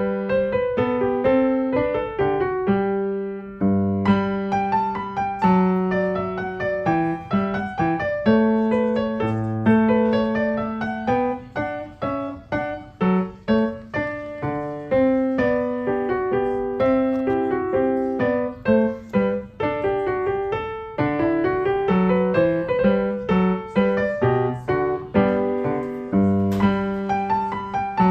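Background piano music: a gentle melody of struck notes over a lower accompaniment.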